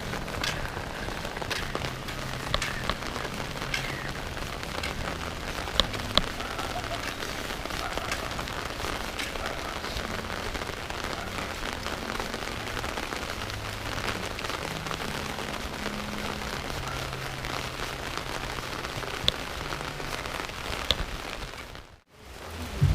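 Steady rain falling and pattering on surfaces, with scattered sharp drip ticks and a faint low hum underneath. It fades out shortly before the end.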